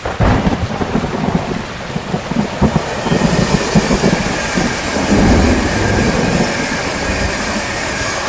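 Rain falling with a roll of thunder that starts suddenly and rumbles low and unevenly for several seconds; the rain hiss grows stronger about three seconds in.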